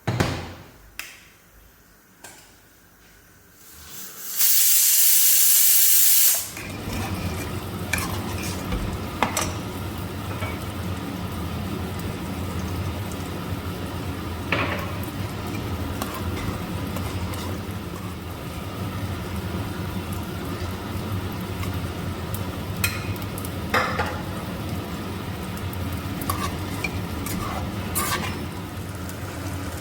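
A loud hiss lasting about two seconds, cutting off sharply, then food frying in a pan: a steady sizzle with a handful of sharp clinks of a utensil against the pan.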